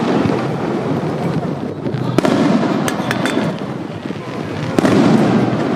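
Fireworks display: aerial shells bursting with sharp bangs about two seconds in, a quick run of cracks around three seconds, and another bang near five seconds, over a steady wash of crowd noise.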